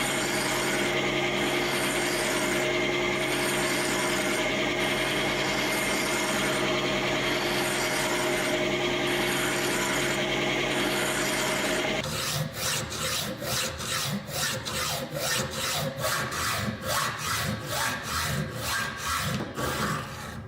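A small electric power tool runs steadily with a humming motor for about twelve seconds, then stops. Rhythmic back-and-forth rubbing strokes follow, about two to three a second, as the rusty steel of the pliers is worked by hand with an abrasive.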